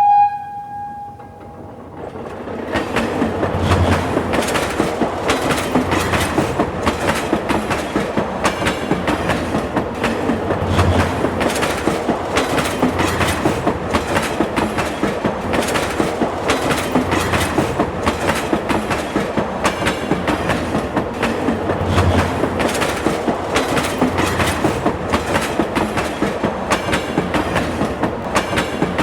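A brief train horn blast that stops about a second in, then a train rolling over the rail joints with a steady, rapid clickety-clack.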